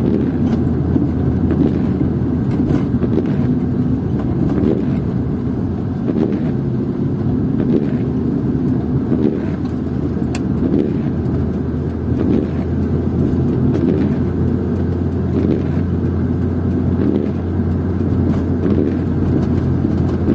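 Car cabin noise while driving: a steady low rumble of tyres and engine, with small knocks and rattles as the car shakes over a rough road surface.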